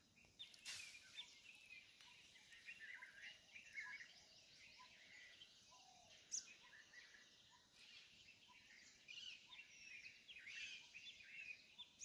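Faint birdsong in dry woodland: several birds chirping and warbling together, with one short note repeated about once a second.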